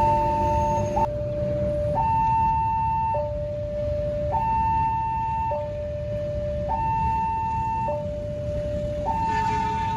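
Indonesian railway level-crossing warning siren sounding its shrill two-tone alarm, switching between a high and a low tone about every second, signalling that a train is approaching and the barriers are down. Near the end a further set of tones joins in.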